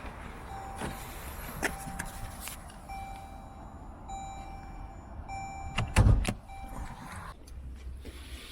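Toyota Vellfire's warning beeper sounding in short beeps about once a second, with a few clicks and a heavy door-like thud about six seconds in; the beeping stops about a second after the thud.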